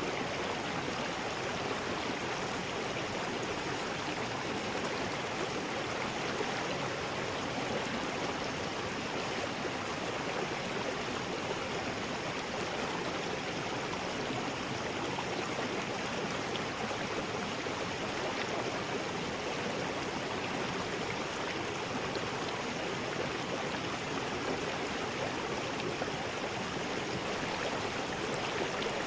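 River rapids: fast water rushing steadily over rocks, a continuous even roar with no breaks.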